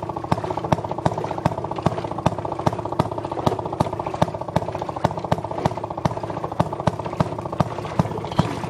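Gas-powered Maytag wringer washer running on its small two-stroke engine, a fast steady chugging with a sharp regular clack about two to three times a second.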